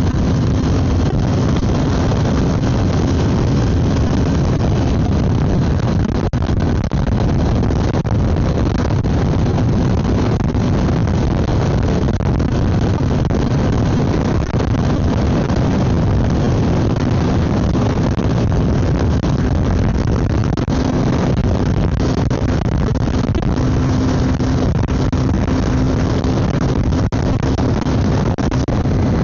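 Wind rushing over the microphone with the Honda CB300F Twister's single-cylinder engine running at a steady high speed, loud and unchanging.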